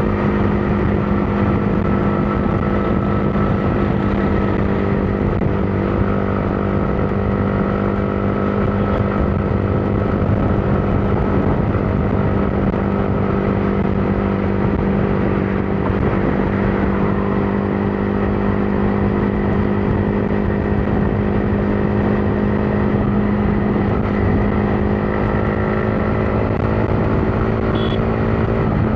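Motorcycle engine running at a steady, even speed while riding, with road and wind noise underneath.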